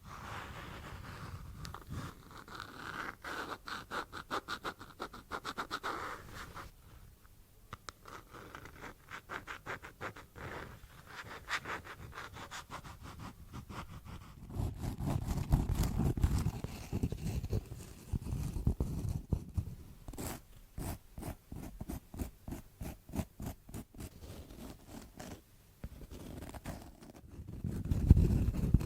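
Rapid scratching and scraping strokes in quick runs, with short pauses between runs and a louder stretch in the middle.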